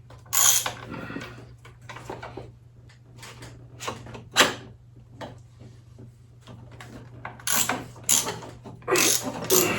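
Irregular metallic clicks and knocks of a socket wrench being worked on a Harley V-Rod front-fork cap nut, with a louder cluster near the end, over a steady low hum.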